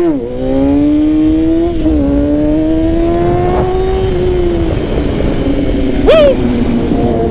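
Sportbike engine pulling under acceleration, its pitch climbing steadily with a gear change about two seconds in, easing off around four and a half seconds, then a short sharp rev blip near six seconds.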